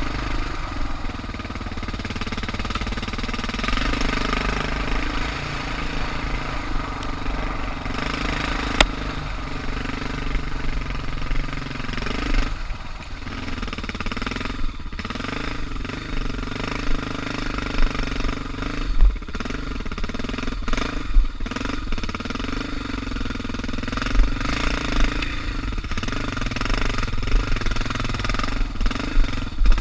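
Suzuki DR650's single-cylinder four-stroke engine running under way on a dirt trail, its revs rising and falling as the throttle changes, with a few short sharp knocks scattered through.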